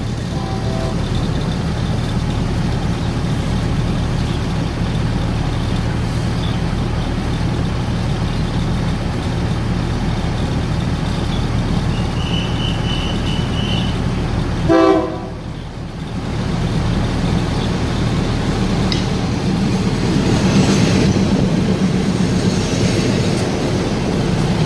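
A diesel train idles with a steady low throb while waiting at a passing loop. About 15 seconds in comes a short horn toot. In the last several seconds a louder, noisier rail rumble builds.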